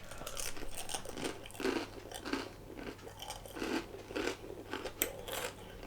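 A man chewing a mouthful of chicken and lettuce wrap close to the microphone, crunching at about two chews a second.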